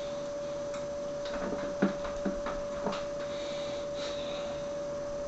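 A few light clicks and taps from handling small cable connectors and wires, the sharpest about two seconds in, over a steady faint hum.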